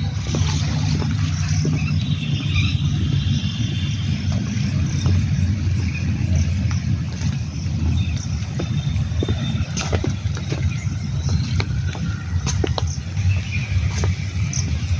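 Rain falling steadily, with a heavy low rumble beneath it and faint high chirps and small clicks now and then.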